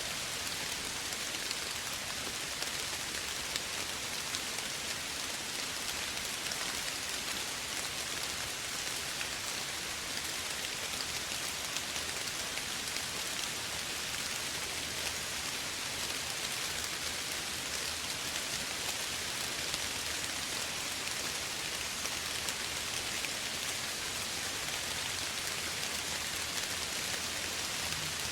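Steady gentle rain falling, an even hiss with fine scattered drop ticks and no change in level.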